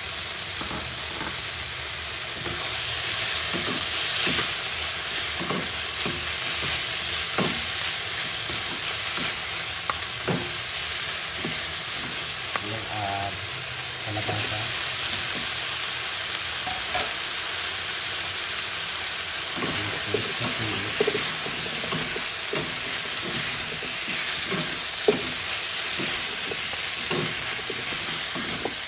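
Ground pork, tomato and onion sizzling steadily in a hot nonstick wok. Scattered scrapes and knocks of wooden spatulas stirring the pan are heard through the sizzle.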